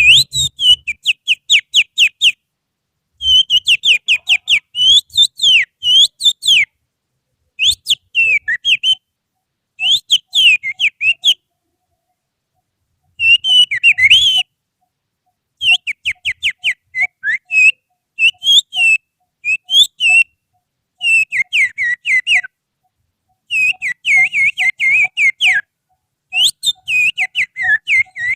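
Human finger whistling imitating an oriental magpie-robin's (kacer) song: loud, rapid trills of sharp notes that mostly slide downward, delivered in phrases of a second or two separated by short pauses.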